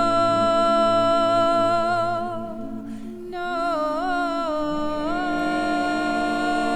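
Vocal music of several voices humming and singing long held notes in a slow drone. It thins briefly about three seconds in, then a new note with a wavering pitch comes in over the held tones.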